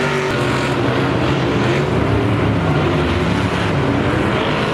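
Loud engine noise with several pitches rising and falling together, like engines being revved.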